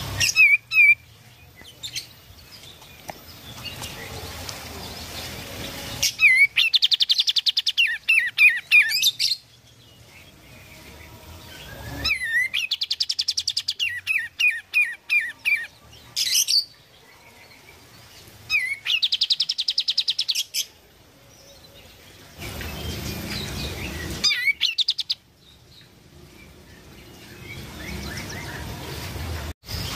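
Kapas tembak songbird singing in repeated bursts. Each burst is a rapid run of high, chattering notes lasting one to four seconds, with short pauses between.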